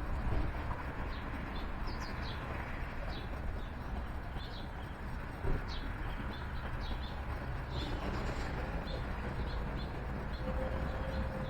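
Small songbirds chirping: many short, high chirps throughout, over a steady low outdoor rumble, with a faint steady low tone in the last few seconds.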